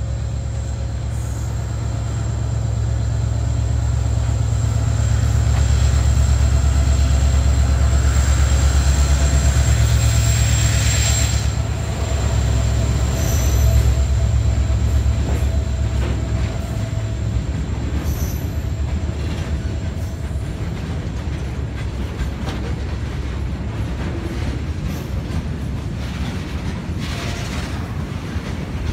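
Diesel freight locomotive running under load as it approaches and passes, its engine hum building and then easing about 12 seconds in. The long train of flat wagons carrying lorries then rolls by with steady wheel clatter over the rails.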